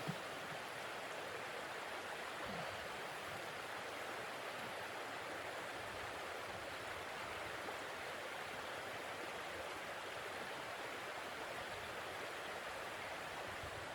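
Steady, even rushing noise with no distinct knocks or voices.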